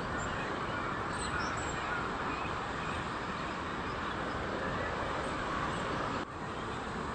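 Steady outdoor background noise with a few brief, faint bird calls scattered through it.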